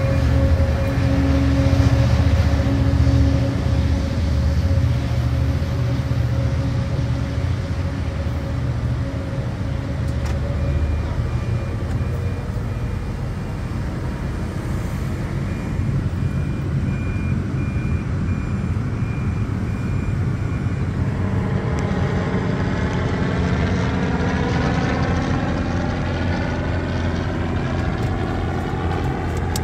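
Sounder commuter train hauled by an EMD F59PHI diesel locomotive moving through the station, a deep steady rumble heard from inside a car. A steady hum fades over the first ten seconds, and about two-thirds of the way in a sweeping, phasing whoosh builds over the rumble.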